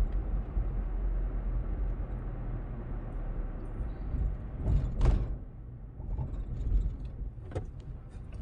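Car road noise heard from inside the cabin while driving: a steady low rumble of engine and tyres, with a brief louder rush about five seconds in.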